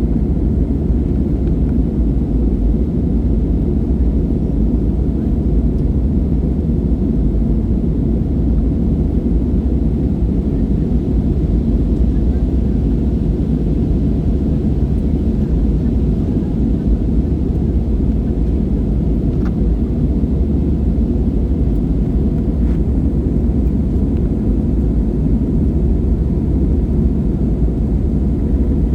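Steady, loud low rumble of an Airbus A320-family jet airliner's engines and rushing airflow, heard from inside the passenger cabin.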